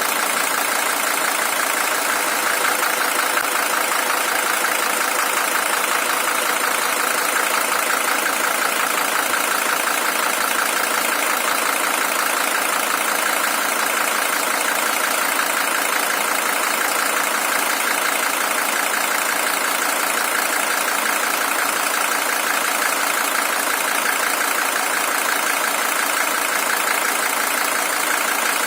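Mercedes-Benz OM617 five-cylinder diesel engine idling steadily. It is the original engine, with 620,000 km on it.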